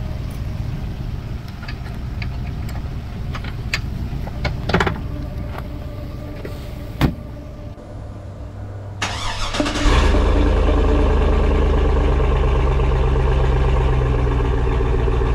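A few scattered knocks over a low rumble, then an engine cranks over about nine seconds in and catches a second later, running steadily and loudly at a fast idle.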